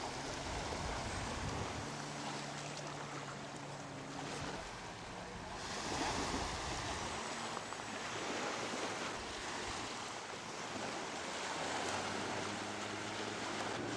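Distant drone of a radio-controlled model seaplane's engine, its pitch shifting a few times with throttle and flight path, under steady wind noise on the microphone.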